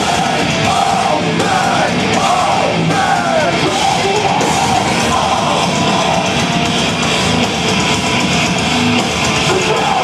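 Metalcore band playing live on stage: loud distorted electric guitars and drums in a dense, steady wall of sound.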